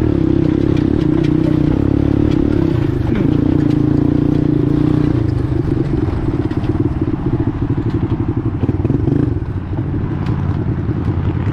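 A 1986 four-wheeler's (ATV's) engine running under way at a steady speed, then easing to lower revs about five seconds in, where its separate firing pulses can be heard.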